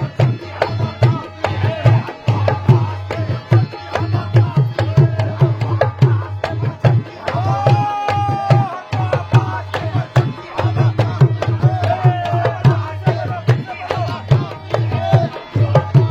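Qawwali music: a hand drum, the dholak, plays a fast, steady rhythm with a strong low boom, while a few sustained melodic notes are held above it.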